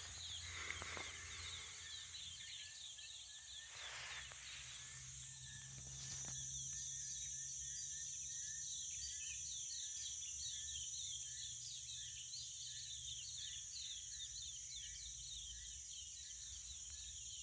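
Small birds singing at dawn, with many short chirping notes repeated in quick runs, over a steady high-pitched hum of insects.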